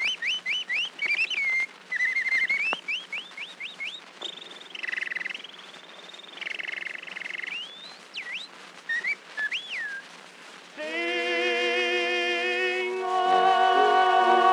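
Whistled bird imitations on an early acoustic wax-cylinder recording, over surface hiss: a run of quick rising chirps, then warbling trills and a few slow swoops. About eleven seconds in, the accompanying orchestra comes in with sustained brass chords.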